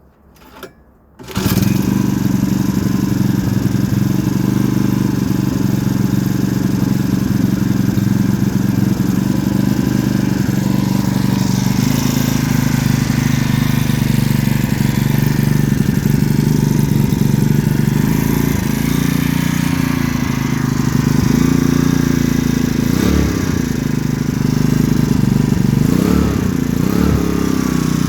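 Huasheng 142F four-stroke bicycle engine starting about a second in, then running steadily. Near the end it is revved up and down a few times.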